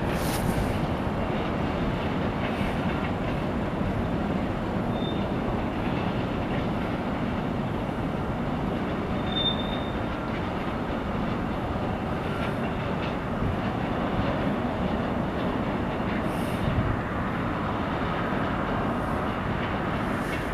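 Freight cars of a BNSF train rolling past: a steady rumble of steel wheels on rail. Brief high wheel squeals come twice, about five and nine seconds in, and a few sharp clanks are heard.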